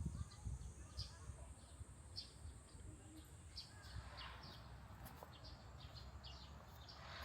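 Small birds chirping: short high chirps repeated about twice a second, over a faint low rumble.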